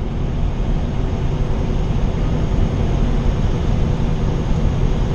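Semi truck on the move: a steady drone of engine and road noise, heard from inside the cab.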